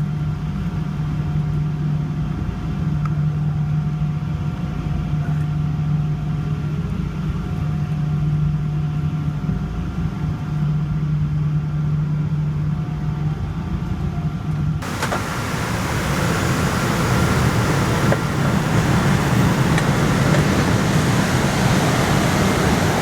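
Airliner cabin noise from a Boeing 777-200ER after landing: a steady low hum with faint steady whining tones from the engines and air system. About 15 seconds in it cuts abruptly to a louder, even rushing noise.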